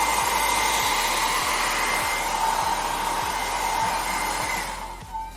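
Handheld hair dryer running steadily with a faint whine, drying out a water-damaged car stereo's circuit board; it winds down and stops near the end.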